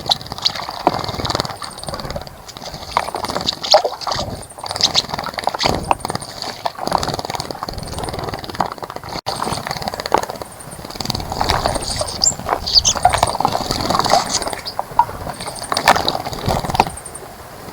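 Birds splashing in a bird bath: irregular bursts of water being flicked and churned, with faint, repeated high-pitched chirps in the background.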